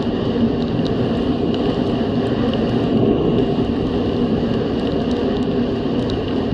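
Snowmobile running steadily at trail speed, a dense engine and track drone with a thin steady high whine over it.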